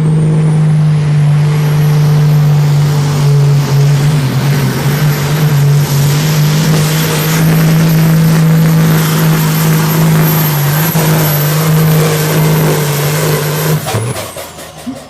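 Super Sport pulling tractor's diesel engine running flat out through a full pull, with a steady engine note and a high whine that climbs at the start and then holds. About fourteen seconds in the engine cuts off suddenly, the end of the run.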